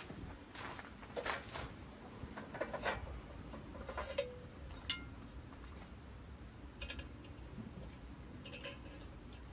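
A steady high-pitched chorus of insects, with a few short, light clicks and knocks scattered through it.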